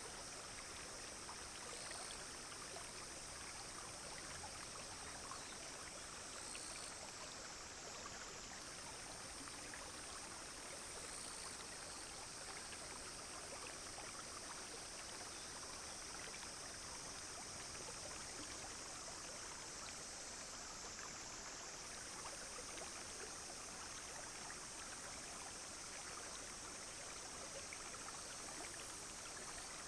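Small clear brook babbling steadily over stones, under a continuous high-pitched drone of cicadas and other insects that drops out briefly twice.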